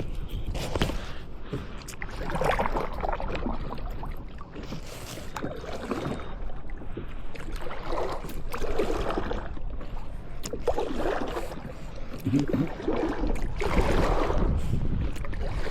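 Kayak paddle strokes swishing and splashing through lake water, one every couple of seconds, over a steady low rumble.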